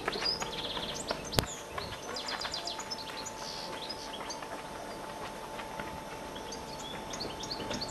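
Small birds chirping in quick repeated trills over a faint steady hum, with one sharp knock about one and a half seconds in.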